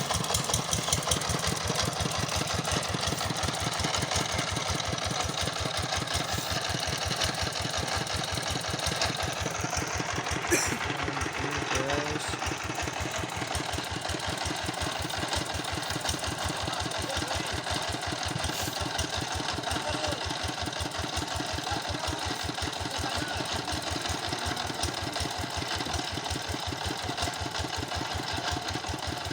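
An engine running steadily at an even speed with a fast, regular knocking beat, without revving up or down.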